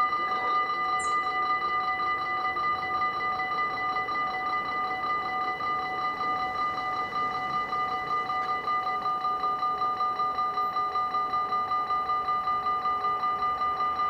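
Electronic warning bell of a Dutch railway level crossing ringing in rapid, even strokes, a bright metallic ring that keeps going while the crossing is closed for a train.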